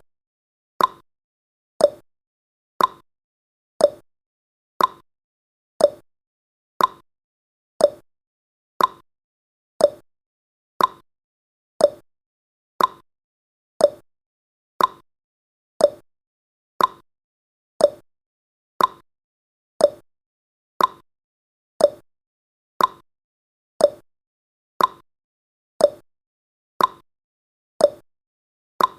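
A countdown timer's ticking sound effect: one short, sharp, clock-like tick each second, evenly spaced.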